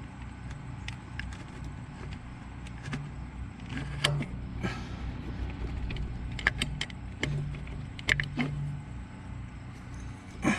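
Scattered metallic clicks and clinks of a distributor being lifted and dropped back into mesh with its drive gear on a 1985 Chevy S-10 engine, as it is reset one tooth to set the timing. A steady low hum runs underneath.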